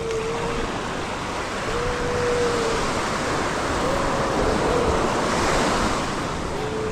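Ocean surf washing up on a beach, swelling louder in the middle then easing off.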